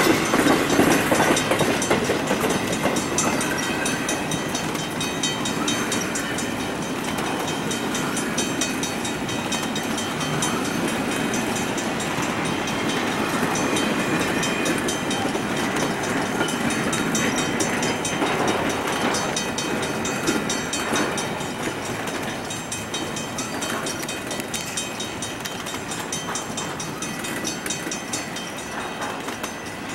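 Freight train of empty intermodal well cars rolling through a grade crossing: steady rumble of wheels and rattling car bodies, with wheels clacking over rail joints, a little louder at the start. Steady high ringing over it, consistent with the crossing's mechanical bells.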